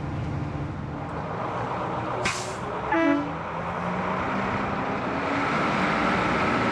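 A large vehicle's engine running, with a short burst of hissing air about two seconds in and a brief falling squeal just after.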